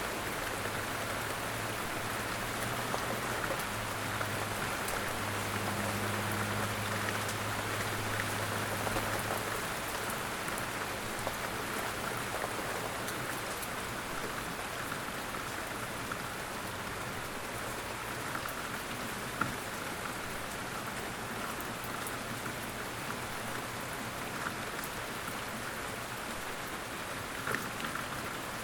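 Steady light rain falling in woods, with individual drops ticking now and then. A low hum runs underneath through the first third.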